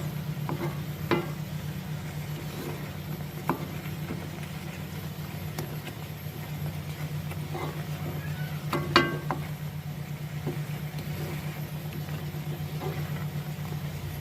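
Steady low hum with scattered light clicks and taps of kitchen utensils and containers being handled, and a sharper knock about nine seconds in.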